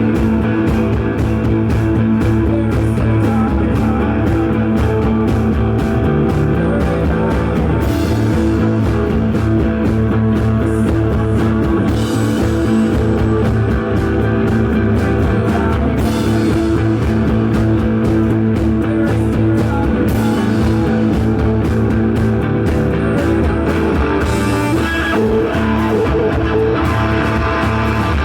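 Live psychedelic rock band playing: sustained, droning electric guitars over a drum kit keeping a steady pulse, with a bright wash of sound returning about every four seconds.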